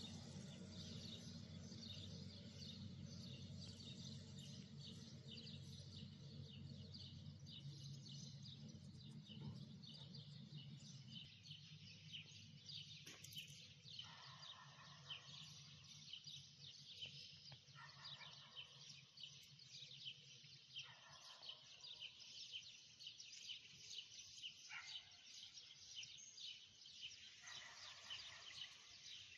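Faint chorus of many small birds chirping continuously, with a low steady hum underneath that fades out about two-thirds of the way through.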